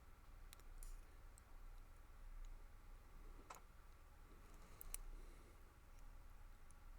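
A handful of faint, scattered clicks from small metal lock parts: the pins and springs of a brass pin-tumbler padlock being handled as it is reassembled, pin by pin.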